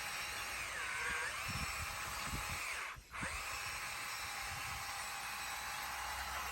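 Bulldozer working, its engine and drivetrain whining steadily and rising and falling in pitch as the load changes, with a few low thumps and a brief cut-out about three seconds in.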